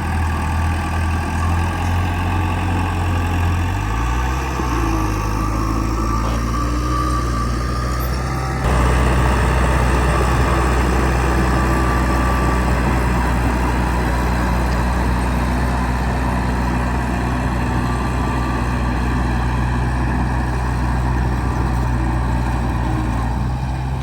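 Heavy construction machine engine running steadily, its pitch shifting about four seconds in and its sound suddenly louder from about eight and a half seconds on.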